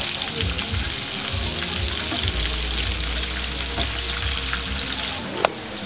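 Battered egg fritters frying in a pan of hot oil: a steady, busy crackling sizzle, with a single sharp click near the end.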